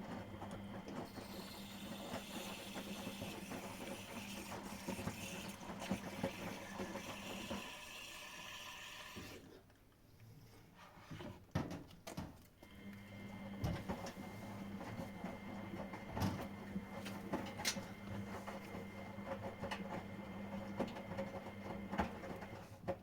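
Miele Professional WS5436 washing machine running a wash cycle: a steady motor hum as the drum turns, with small clicks and rattles from the tumbling load. The drum stops for about three seconds near the middle, then turns again.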